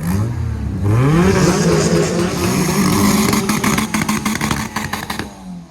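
A car engine revving hard, its pitch climbing over the first second and then wavering at high revs. A rapid string of sharp pops comes over it from about three and a half to five seconds in, before it drops away near the end.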